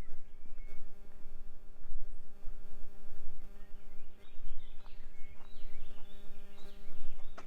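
Small birds chirping and twittering, busier from about halfway, over a steady low mechanical hum that starts just under a second in.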